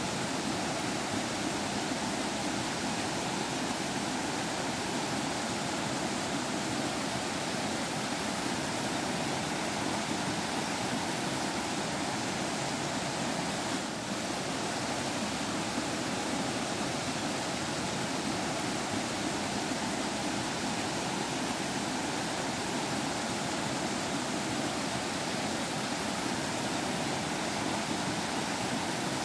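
Stream water flowing steadily, an even, continuous babble and rush.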